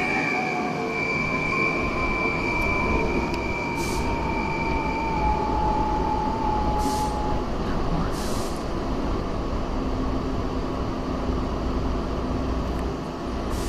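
Electric commuter train running on the Tobu Tojo Line, heard from on board: a steady running rumble with a motor whine whose pitch falls slowly and fades about halfway through, as the train slows for its next stop. A few short hisses come in around the middle.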